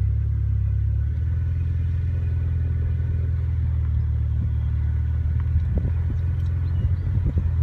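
Steady low rumble of a car driving: road and engine noise with no changes in pace.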